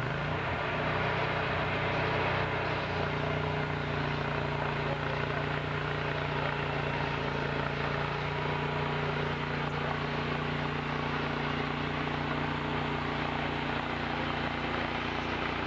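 Sawmill engine running steadily, with a hum whose pitch shifts slightly a few times.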